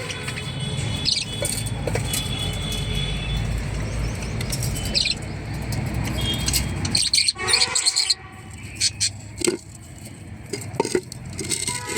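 Budgerigars chirping and chattering in short bursts over a steady low rumble. The calls gather about seven seconds in.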